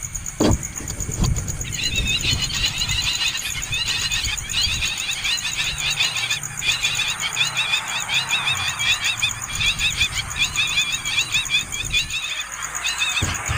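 Hungry nestling birds giving rapid, wavering begging calls over and over, with a couple of low thumps about a second in.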